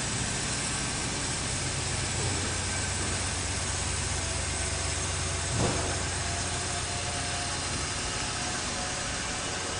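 A 5.4-liter Triton V8 in a Ford F-250 Super Duty idling steadily with a low, even hum and hiss, and a brief bump a little over halfway through.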